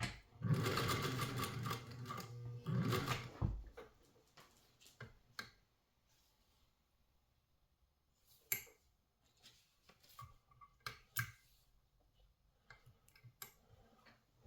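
Singer 201 sewing machine running for about three seconds, stitching through layers of tubular webbing, then stopping. Scattered clicks and taps follow as the machine and the work are handled.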